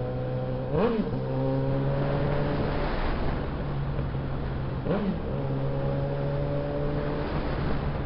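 Suzuki Bandit 650S inline-four engine running under way, its note climbing slowly, with two brief breaks in pitch about a second in and about five seconds in, as at gear changes.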